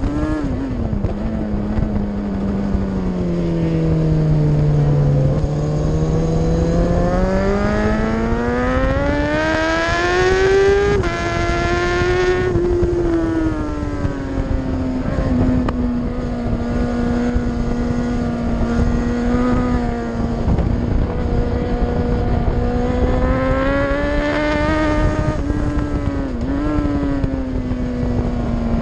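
Onboard sound of a racing superbike's engine under hard use. The engine note falls in pitch at the start, climbs steadily up the revs, drops sharply once as it shifts up, then holds a high, fairly even note with another brief rise and quick dip near the end. Steady wind rush runs underneath.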